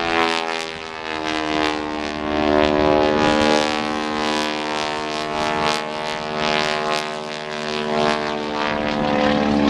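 Propeller-driven aerobatic plane's piston engine running in a dive and roll: a steady drone of many pitches that drifts slightly up and down.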